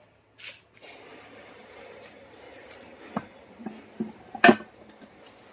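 A few sharp knocks over a steady hiss, with the loudest knock about four and a half seconds in.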